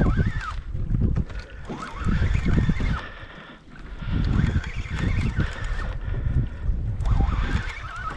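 Wind buffeting the microphone on a kayak out on the water: a low rumble that surges and fades every second or two.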